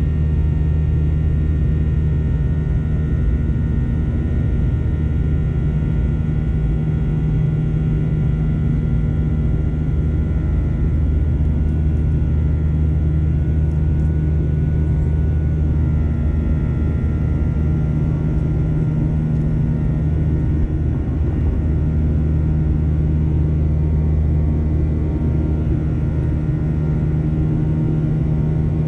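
Steady drone inside a Boeing 737-900ER's cabin: its CFM56-7B jet engines and the airflow, a deep even hum with several steady whining tones over it, holding level without a surge or pause.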